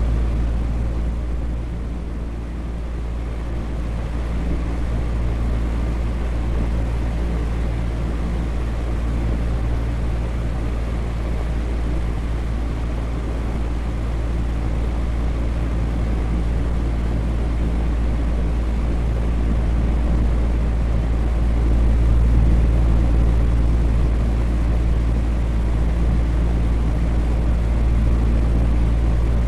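Electric fan running steadily: a low motor hum under an even rush of moving air, easing slightly about two seconds in and otherwise holding level.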